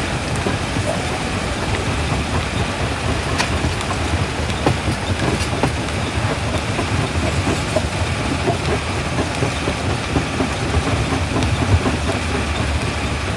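Primary jaw crusher running under load: a steady low rumble with a dense clatter of rock being crushed and tumbling, and a few sharper cracks a few seconds in.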